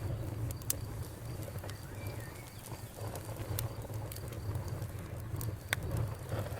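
Wood fire burning in a fireplace: a steady low rumble of the flames with scattered sharp pops and crackles from the burning logs.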